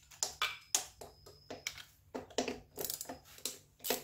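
Irregular run of sharp clicks and metallic clinks, about a dozen over a few seconds, from hand tools and small metal parts being handled while freeing an earth wire on the engine.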